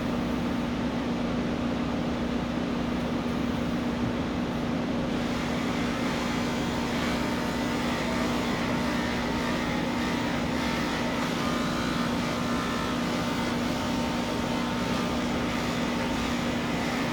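Electric grooming clippers running with a steady hum, shaving a cat's fur; the sound gets a little brighter and noisier about five seconds in.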